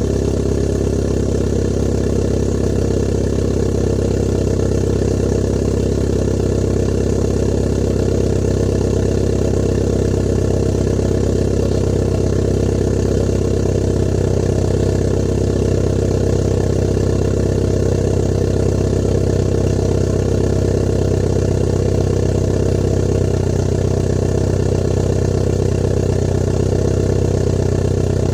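Kia Cerato Koup's 1.6 naturally aspirated four-cylinder engine idling steadily on a cold morning start, heard through an aftermarket exhaust: custom 4-2-1 manifold, hi-flow cat, resonator and valved exhaust.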